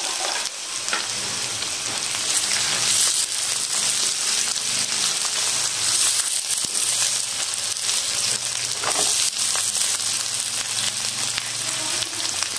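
Sliced bitter gourd and onions with green chillies frying in oil in a karahi: a steady sizzle, with the soft scrape of a silicone spatula stirring them through.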